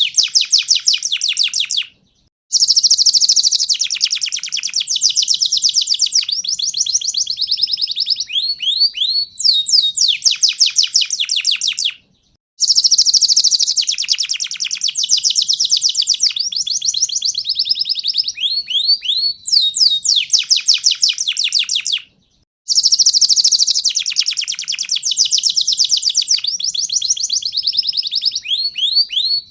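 Domestic canary singing a long song of fast trills and rolling notes. The same phrase comes three times, each broken off by a brief silence about ten seconds apart.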